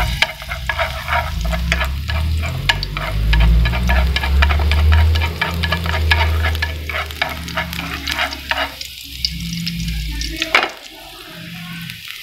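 Food frying in hot oil in a pan, with dense irregular crackling and spattering over a low rumble. The crackling thins out about nine seconds in, and a single sharp knock comes near the end.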